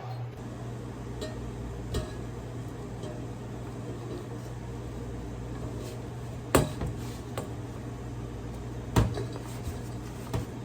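Sharp knocks and light clatter of work in a cafe kitchen, loudest about six and a half and nine seconds in, with a softer tap about two seconds in, over a steady low machine hum.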